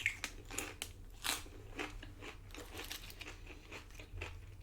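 A person chewing crunchy nacho tortilla chips close to the microphone: a string of irregular crisp crunches.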